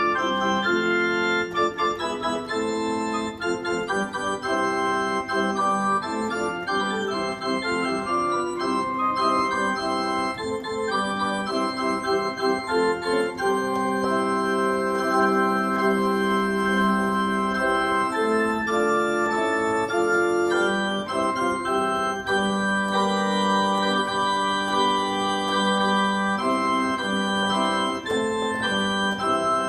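Yamaha NP-30 portable digital keyboard played on its organ voice: held chords in the low-middle range with shorter melody notes moving above them.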